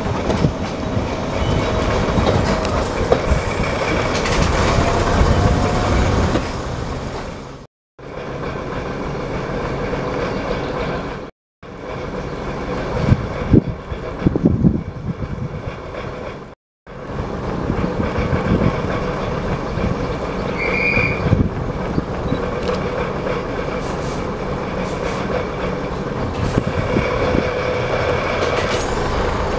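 Passenger train running on the line: a steady rumble and clatter of wheels on rail, with a short high tone partway through. The sound breaks off completely three times, for a moment each.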